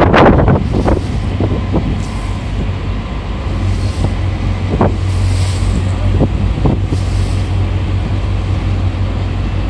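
Strong wind buffeting a phone's microphone over the steady low drone of a small naval support boat's engine, with a heavy gust at the very start and a few brief knocks in the middle.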